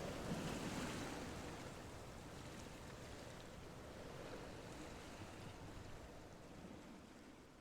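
Faint rushing water noise, fading away steadily.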